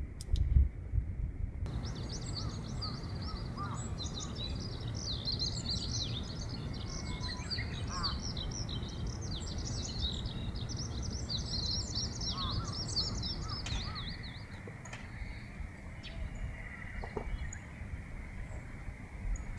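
Many small birds chirping and twittering together as a flock, thinning out about three-quarters of the way through, over a steady low rumble.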